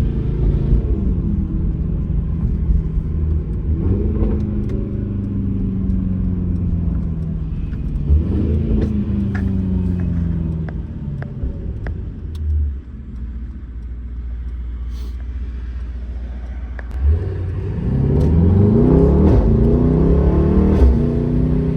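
Mercedes-AMG GT63 S twin-turbo V8 with a custom straight-piped exhaust, heard from inside the cabin while driving. The engine pitch rises and falls several times, then settles low and steady. About seventeen seconds in it pulls hard and loud, the pitch climbing in quick steps through several upshifts.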